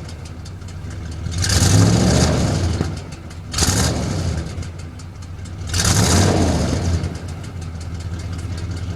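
Car engine idling and revved three times through its exhaust: two longer revs and a short sharp blip between them, then settling back to a steady idle.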